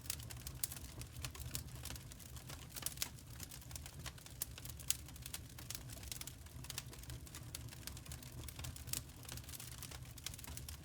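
Dense, irregular light clicks and crackles over a steady low hum.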